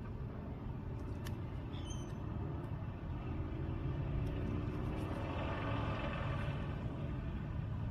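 Outdoor traffic rumble with a vehicle passing by, its engine note swelling through the middle and fading near the end.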